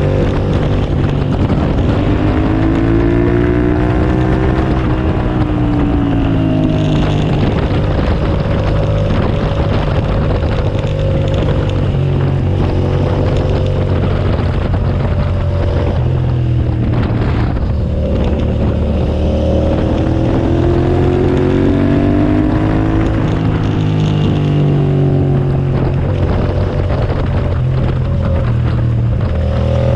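2007 Suzuki SV650S's V-twin engine on track, revving up and falling back again and again through gear changes, with wind rushing over the microphone.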